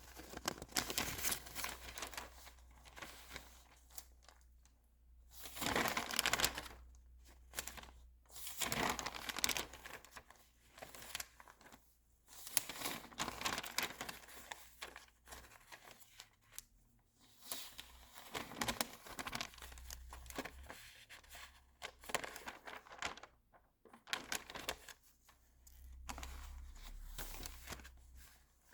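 Glossy magazine pages being turned and handled close to the microphone: repeated papery swishes and crinkles, some louder sweeps with short pauses between them.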